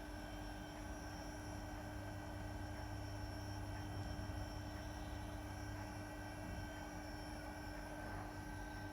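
Steady low electrical hum with faint steady high tones and hiss, with no distinct events.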